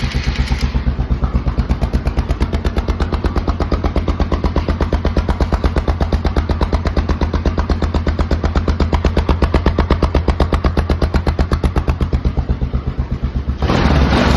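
ATV engine idling through an aftermarket Thrush muffler, with a steady, rapid exhaust pulse. Near the end the throttle is opened and it gets louder.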